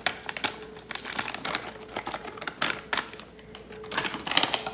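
A utensil stirring flour into a batter in a bowl: rapid, irregular clicks and taps against the bowl.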